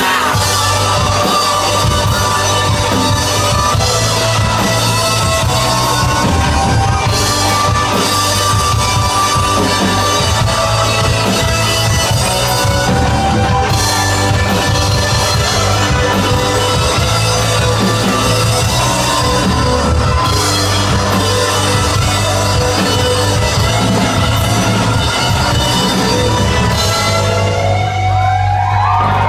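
Live rock band playing an instrumental stretch: distorted electric guitars, bass and a drum kit with crashing cymbals, with a guitar sliding upward near the end.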